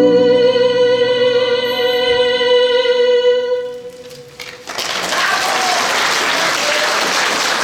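A female singer holds the song's long final note with vibrato, which fades out about four seconds in; the audience then breaks into applause.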